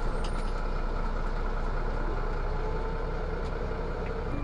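Van Hool A320 city bus engine and running noise heard from inside the passenger cabin: a steady low rumble with a few faint clicks near the start.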